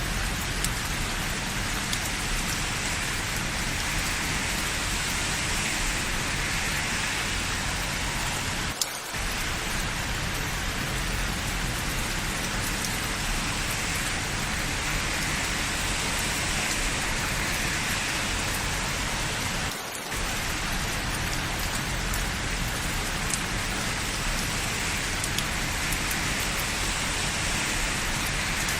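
Steady rain falling, a dense even hiss, with two brief dropouts about nine and twenty seconds in.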